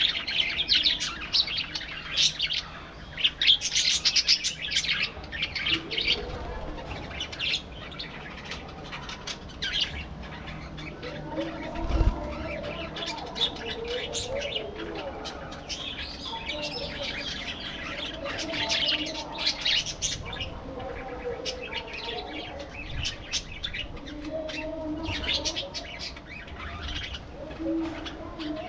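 A flock of budgerigars chirping and chattering, many short overlapping calls at once, with a brief thump about twelve seconds in.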